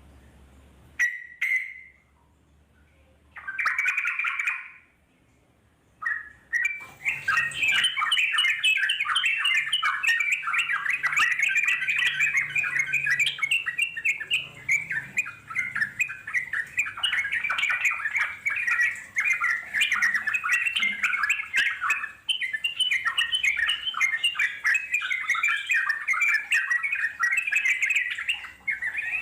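Yellow-vented bulbul (trucuk) song: a short call about a second in and another around four seconds, then from about six seconds a long, unbroken run of rapid chattering notes, the extended 'ngeropel' song.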